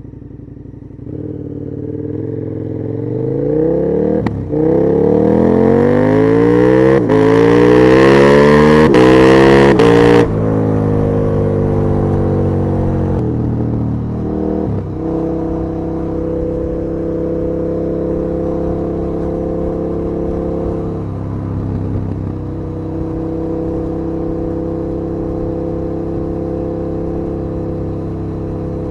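KTM 1290 Super Duke R's V-twin engine pulling hard, revs climbing through the gears with brief breaks at each upshift, loudest about ten seconds in. It then drops off and settles into a steady cruise for the rest, with a short dip around twenty seconds in.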